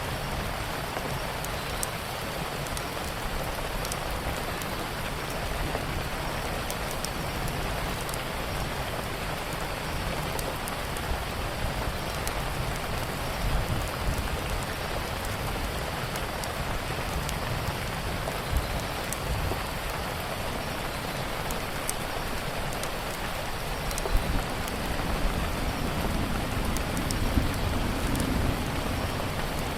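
Steady heavy rain mixed with the scattered sharp pops and crackles of a wood fire, over a low rumble, with a few louder pops near the end.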